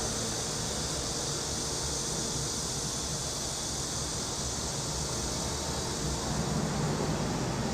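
Summer cicadas droning in a steady, even high hiss over a low background hum of the city. A low rumble swells near the end.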